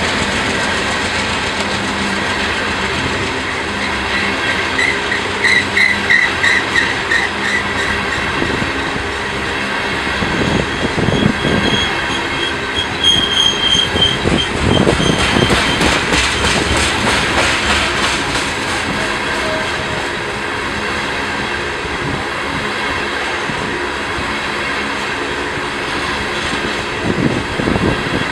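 Loaded coal hopper cars of a freight train rolling past, a steady rumble with wheels clicking over rail joints. High-pitched wheel squeals rise twice, about five seconds in and again around twelve seconds in.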